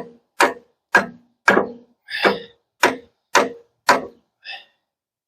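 Hammer blows on a steel loader bucket pin, driving the greased pin into its bracket: nine sharp metallic strikes, about two a second, each with a short ring, the last one fainter.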